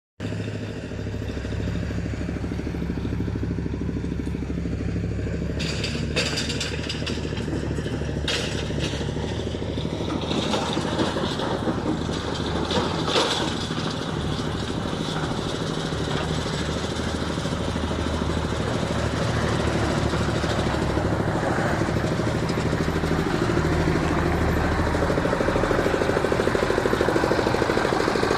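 Changchai L24 diesel engine running steadily, driving a stone crusher. Sharp knocks and clatter come through between about 6 and 13 seconds in, and the running grows louder and fuller near the end.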